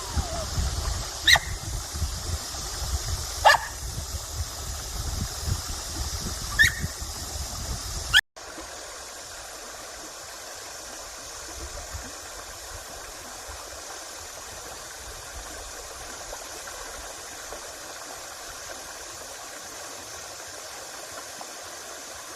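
A small dog gives three short, sharp yips a couple of seconds apart over a low rumble. After a sudden cut, a valley creek rushes steadily.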